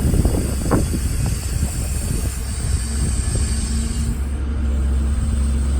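Rebuilt Ford Power Stroke diesel engine of a 2008 F550 bucket truck running with a steady low rumble, with a few sharp metallic knocks in the first second. About three to four seconds in, a steady hum joins and the rumble grows slightly louder.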